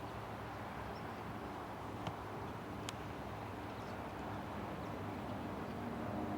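Steady outdoor airport background noise with a low hum of distant engines, two faint clicks about two and three seconds in, and a faint steady engine tone creeping in near the end.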